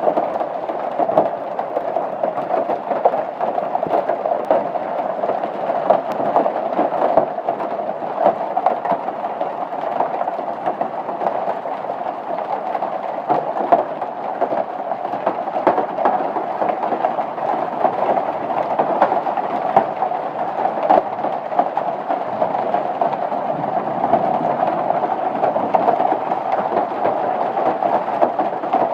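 Hail falling heavily: a dense, unbroken clatter of countless small impacts that stays steady throughout.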